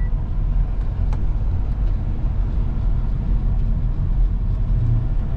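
Steady low rumble of a vehicle on the move, with engine and road noise.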